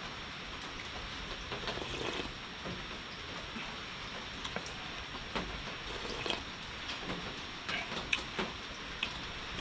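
Heavy rain falling steadily, a constant hiss with scattered louder drips and small ticks.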